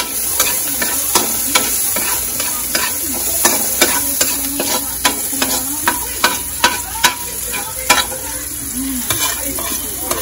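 Diced red bell pepper sizzling steadily as it sautés in a metal wok, with a utensil scraping and clicking against the wok many times as the pieces are stirred.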